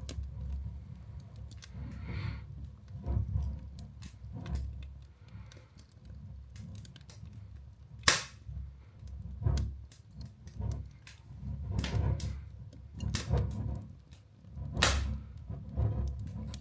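Open fire of wood briquettes and kindling burning in a fireplace: a low rumble of flames with scattered crackles, and two sharp pops about eight and fifteen seconds in.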